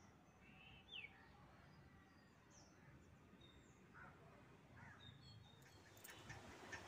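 Near silence with a few faint bird chirps, one a quick falling chirp about a second in, and light ticking near the end.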